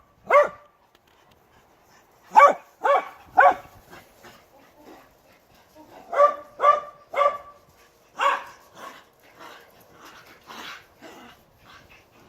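Dog barking in quick sets of two or three high, sharp barks, with fainter yips and noisier sounds in the last few seconds.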